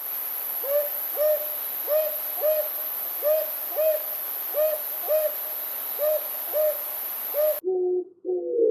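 A bird's repeated short hooting calls, about a dozen, mostly in pairs, over a steady hiss. Near the end the hiss and hoots cut off suddenly and lower cooing calls take over.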